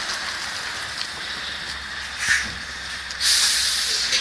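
A steady hiss, with a short burst about two seconds in and a louder hiss starting about three seconds in that lasts over a second.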